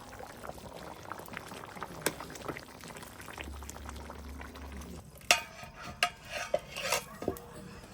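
Chicken curry simmering and bubbling in a pot while being stirred, with a few sharp metal clinks of the spoon against the pot from about five seconds in.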